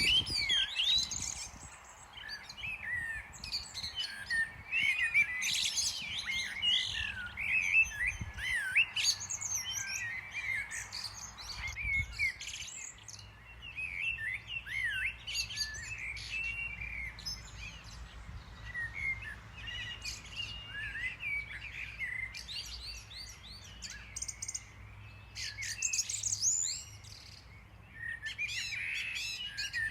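Birds chirping and twittering, many quick high calls overlapping, with brief lulls between flurries.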